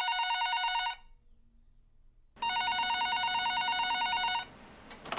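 Telephone ringing with a warbling trill: a ring ending about a second in, then a second ring of about two seconds, followed by a faint click near the end as the call is picked up.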